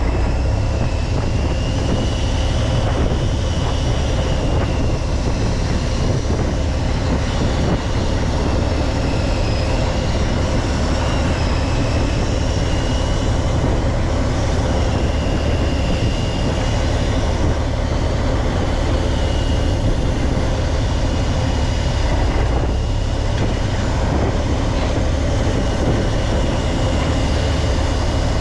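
Fishing boat's engine running steadily, a constant low rumble with a faint wavering high whine above it.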